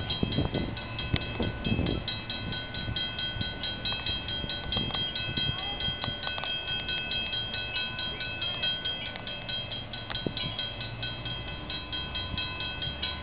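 Excursion train led by a Norfolk Southern diesel locomotive approaching on the line: a low rumble, heaviest in the first two seconds and then steadier, under a set of steady high-pitched ringing tones with light regular ticking.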